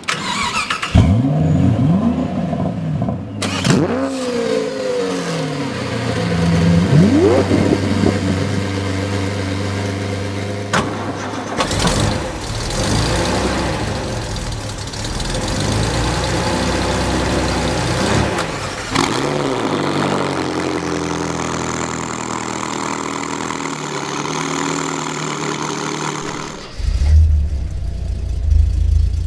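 Engines of several different European performance cars, one after another: started, revved up and down in sharp rising and falling bursts, and left idling. The sound changes abruptly several times as one car gives way to the next.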